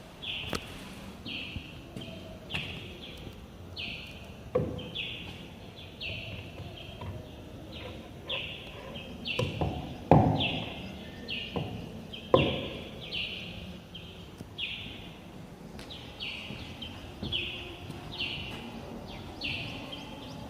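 A bird calling over and over in short, slightly falling chirps, about two a second, over a low outdoor background. A few sharp knocks cut in, the loudest two around the middle.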